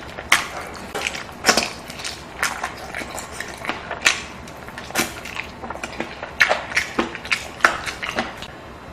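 Close-miked eating sounds: a person chewing with frequent wet smacks and clicks, irregular, several a second, with a few louder bites.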